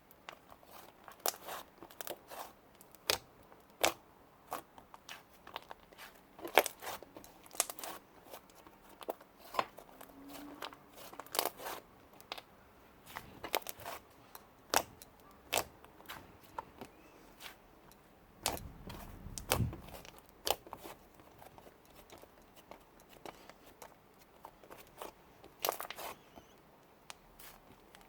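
Slime being pressed and stretched by hand, making irregular sharp clicking and popping sounds, a few a second. A brief low squish comes about two-thirds of the way through.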